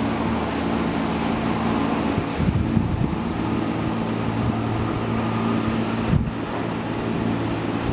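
Helicopter running: a steady engine and rotor drone with several held low tones over a rushing noise, with brief louder bumps about two and a half and six seconds in.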